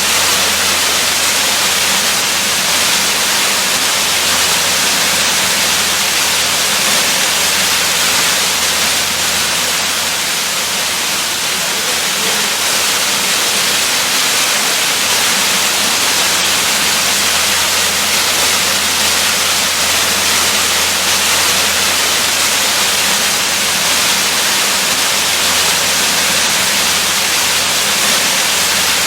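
Waterfall rushing steadily: a dense, even hiss of falling water with no breaks.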